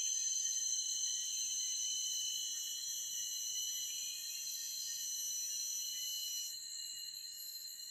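Forest insects droning in several steady high-pitched tones that overlap, with one of them stopping about six and a half seconds in.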